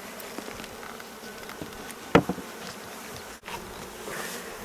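Steady buzzing of a honeybee colony, a Carniolan strain, over an opened hive, with one sharp knock about two seconds in.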